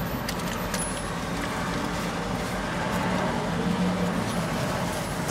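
Steady low hum of a car idling, heard from inside the cabin, with a few faint clicks in the first second.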